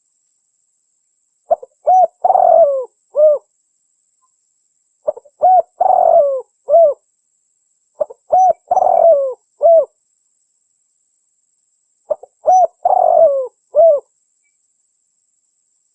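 Spotted dove cooing: four repeated phrases about three and a half seconds apart, each a couple of short notes and a longer coo, then a final note. This is a lure call for drawing in spotted doves.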